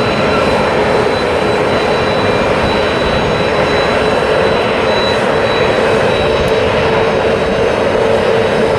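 Jet aircraft taking off at full thrust: a loud, steady engine noise with a thin high whine and a lower steady hum.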